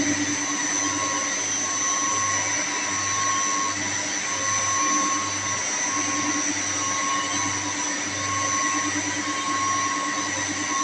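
Electric-motor machinery running steadily, with a high steady whine and a low hum that pulses about twice a second.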